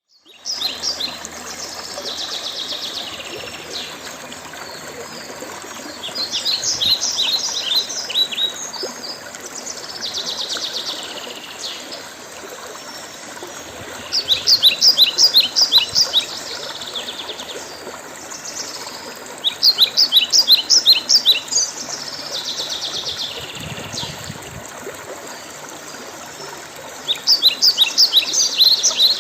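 A songbird singing the same loud phrase again and again, a quick run of short falling notes lasting about a second and a half, roughly every six seconds, with softer buzzy phrases between them, over a steady background hiss.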